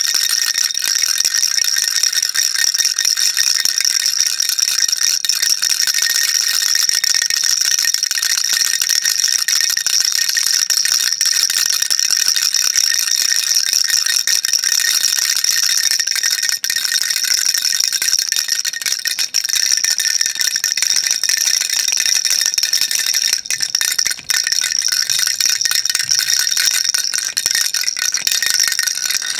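Baby rattle shaken continuously, a dense high-pitched rattling of small beads inside with no pauses.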